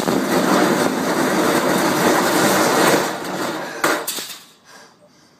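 Motorboat at speed: rushing wind and water noise with the hull knocking. The noise drops off sharply about three seconds in, followed by a single knock.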